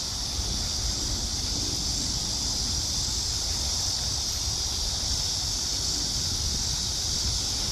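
A steady, unbroken high buzzing of a cicada chorus, with wind rumbling on the microphone underneath.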